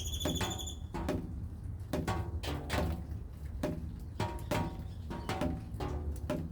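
Raindrops dripping onto resonant surfaces: irregular plinks about one to two a second, each ringing briefly, over a low steady rumble. A brief high, wavering chirp sounds right at the start.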